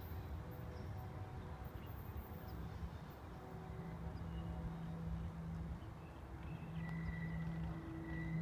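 Distant double-stack freight train running away, a low steady rumble of its diesel locomotives and rolling cars. A faint high steady tone joins about seven seconds in.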